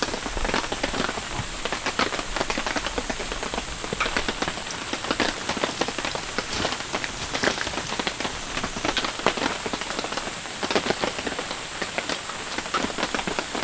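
Heavy rain falling steadily, a dense stream of close drops striking.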